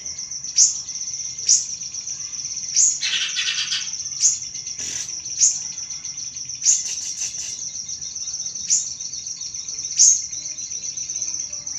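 Recorded sirih-sirih bird calls played as a trigger sound: a continuous high, thin trill punctuated by short, sharp chip notes about every second or so, with a louder harsh chattering burst about three seconds in.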